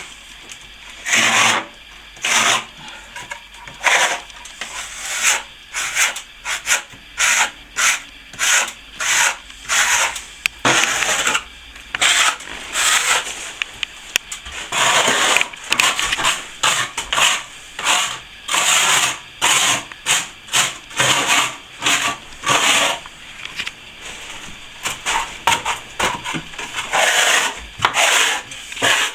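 A steel plastering trowel or scraper scrapes in repeated strokes across a wall's plaster, about one or two strokes a second with short gaps. This is typical of working back plaster that has set past its working time.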